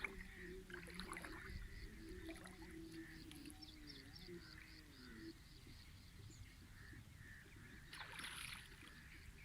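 Faint outdoor ambience: a bird calling in a fast run of short high notes, about three or four a second, over a low steady hum that bends down in pitch and fades about five seconds in. A brief rustle comes near the end.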